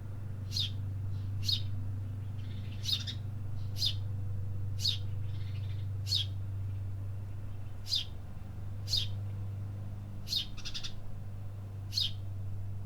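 A bird calling with short, sharp chirps that sweep down steeply in pitch, repeated about once a second, over a steady low hum.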